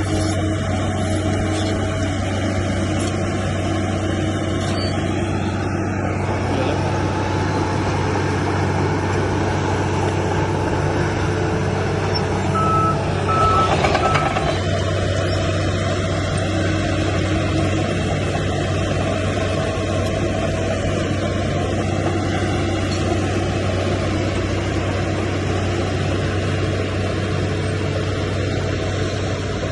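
Heavy diesel earthmoving machinery running steadily with a deep engine hum. About halfway through come a few short reversing beeps and a brief rush of noise.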